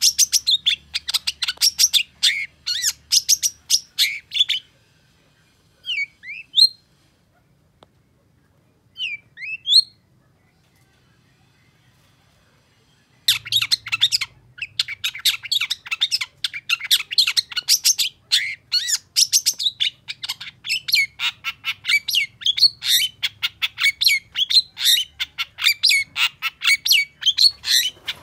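Long-tailed shrike singing: rapid runs of sharp chattering notes, then a few single rising calls and a pause of about three seconds. A long, fast chattering run starts about thirteen seconds in.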